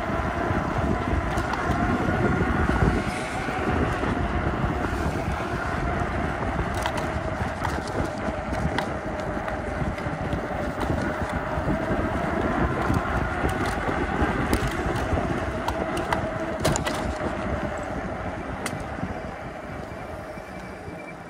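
Electric bicycle under way: a steady motor whine over wind buffeting the microphone and tyre noise, with a few sharp clicks. The whine and the overall level fade over the last few seconds as the bike slows.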